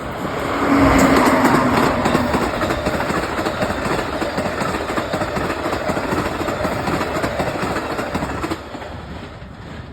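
Diesel-hauled train passing close by: wheels clattering over the rail joints with a low engine note as it goes past, loudest about a second in and dying away near the end.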